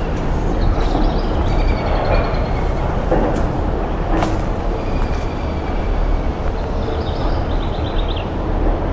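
A steady low rumble with a noisy haze over it, and a few short, high bird calls and trills, the clearest near the start and again near the end.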